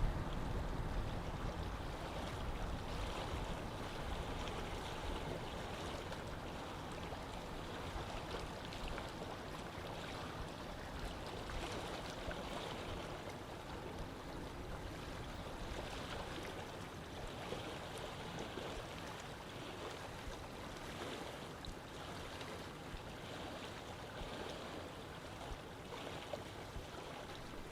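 Steady rush of running water, like a stream. A low wind rumble on the microphone fades out over the first couple of seconds.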